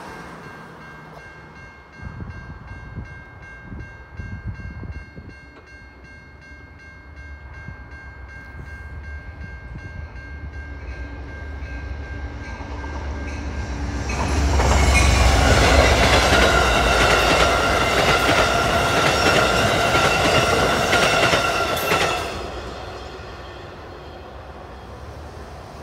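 Railroad crossing bell, a Safetran Type 3, ringing at a quick steady rhythm. About fourteen seconds in, a passenger train led by an Amtrak P42DC diesel locomotive passes through the crossing. It is loud for about eight seconds, with deep rumble and wheel noise drowning out the bell, then cuts off and quiets.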